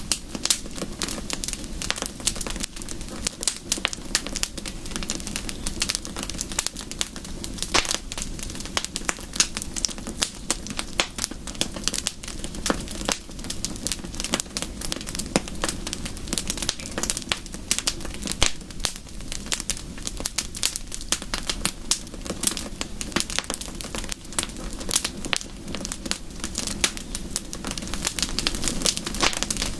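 Wood fire crackling: a dense, irregular run of sharp pops and snaps over a low steady rumble.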